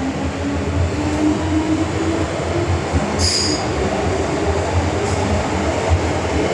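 Interior running noise of an MTR M-train metro car on the move: a steady rumble with a low whine rising in pitch over the first couple of seconds, and a brief high-pitched wheel squeal about three seconds in.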